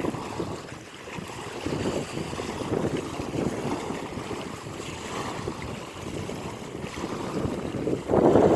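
Atlantic Ocean waves washing and churning, with wind buffeting the microphone. A louder surge of water comes near the end.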